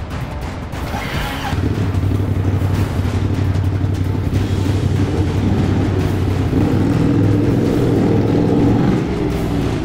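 A motor vehicle's engine running with a steady low hum. It swells about a second and a half in, grows louder again past the middle, then eases off near the end.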